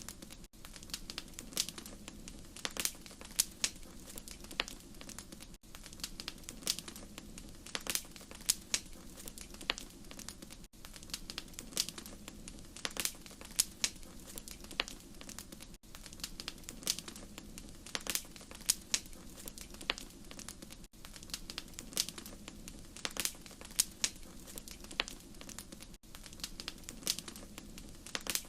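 Wood fire crackling in a fireplace: irregular sharp pops and snaps, several a second, over a steady low rumble of the flames. The track is a short loop with a brief dip about every five seconds.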